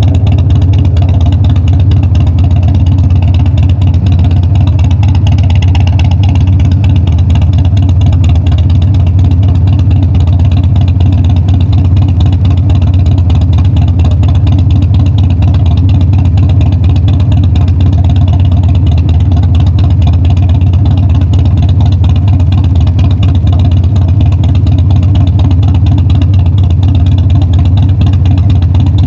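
Harley-Davidson Dyna's V-twin engine and exhaust running loud and steady, with no clear revs or gear changes.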